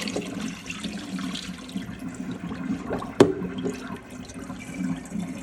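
Water running and draining in a kitchen sink, with a single sharp knock about three seconds in.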